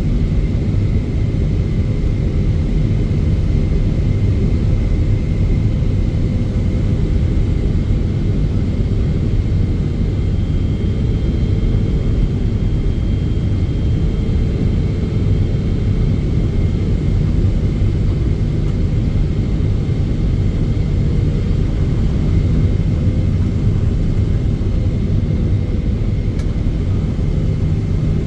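Steady, loud low rumble of a Boeing 777-300ER airliner heard inside the cabin, with faint steady whining tones over it and no sudden changes.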